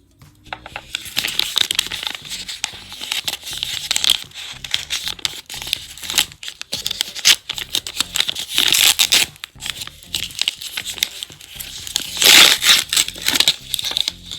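A homemade blind bag being crinkled and torn open by hand, in irregular rustling bursts, loudest twice in the second half.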